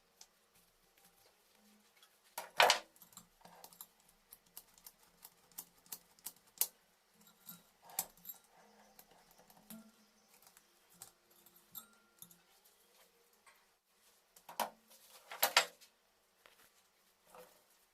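Small metal clicks and clinks of hand tools and parts being handled during motorcycle engine assembly, with a louder clatter about two and a half seconds in and two more near the end.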